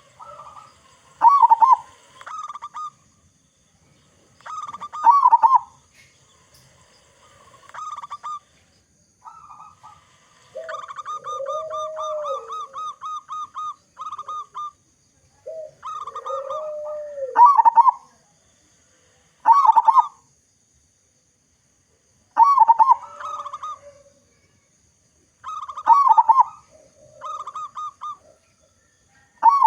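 Zebra doves (perkutut) cooing: short bubbling coo phrases come every couple of seconds. A longer run of quick, evenly repeated notes sounds about a third of the way in, and a lower, drawn-out coo is heard twice in the middle.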